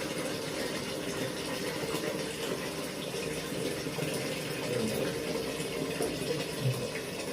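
Water running steadily from a tap, a continuous gushing flow, with a short low thud near the end.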